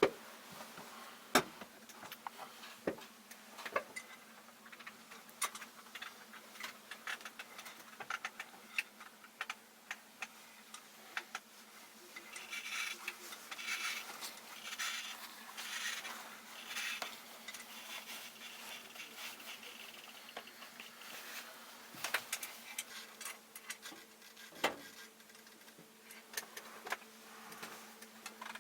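Irregular small clicks and light knocks over a steady electrical hum, with a busier spell of rattling and tapping in the middle; a second, higher hum comes in near the end.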